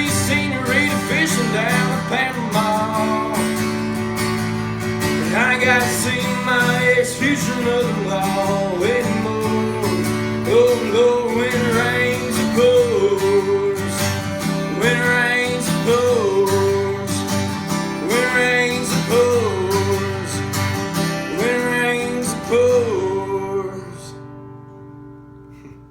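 Instrumental country music: strummed guitar and a steady drum beat under a bending lead melody, the outro of the song, fading out near the end.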